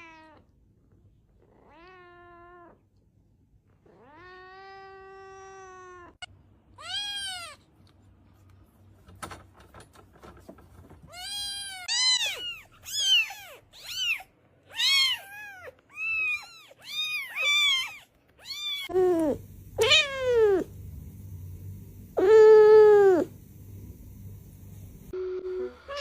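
A cat meowing over and over. A few separate meows and one long, drawn-out meow come first, then a quick run of about one meow a second, and louder meows near the end.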